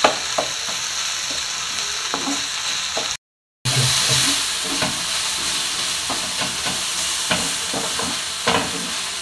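Beef with sliced onions and green capsicum frying in a non-stick wok with a steady sizzle, stirred by a wooden spatula that scrapes and taps against the pan many times. The sound drops out completely for a moment about three seconds in.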